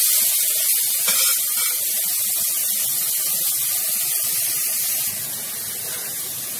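Crushed carrot sizzling in hot ghee in a pressure cooker, a steady hiss that eases slightly about five seconds in.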